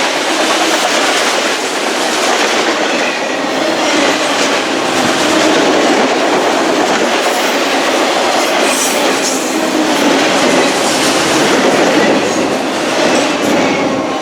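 Train cars rolling past, their wheels running steadily on the rails.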